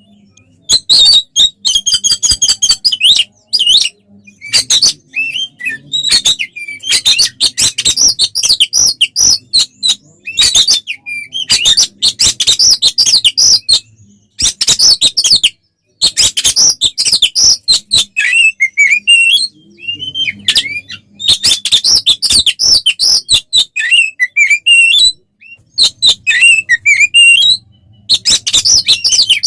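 Oriental magpie-robin (kacer) singing loudly in its agitated fighting song: bursts of rapid, sharp, buzzy notes and whistled phrases, broken by short pauses.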